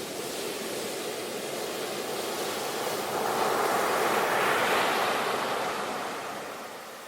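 Sea waves breaking and washing on the shore: a steady hiss of surf that swells to a peak about halfway through and then fades away near the end.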